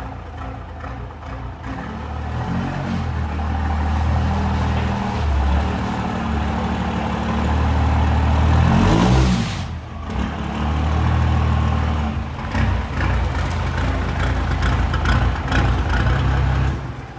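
Fargo truck's Cummins compound-turbo diesel engine revving up and down in steps. About nine seconds in there is a brief loud hiss, then a short drop before the revving resumes. The sound falls away near the end.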